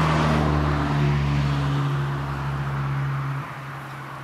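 A car passing on the road: tyre noise and a low engine hum, loudest at the start and fading as it drives away, dropping off about three and a half seconds in.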